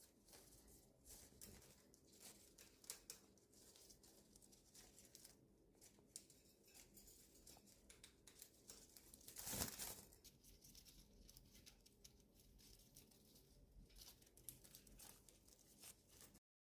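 Faint rustling, crinkling and small tearing clicks of eucalyptus leaves being handled and chewed by budgies' beaks, with one louder rustle about halfway through. The sound cuts off abruptly near the end.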